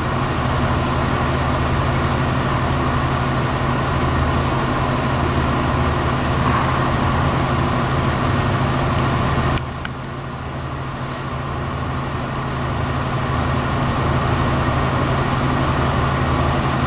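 A motor vehicle engine idling, a steady low hum. About ten seconds in there is a click and the sound drops in level, then builds back up.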